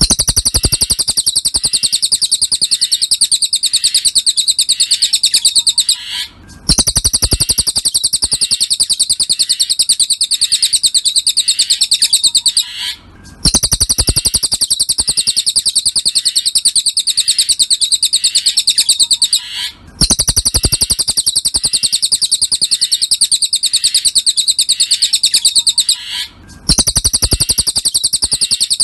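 Cililin birdsong masteran recording: a rapid, even run of high chirps in phrases about six seconds long, each broken by a brief pause, repeating at regular intervals like a loop.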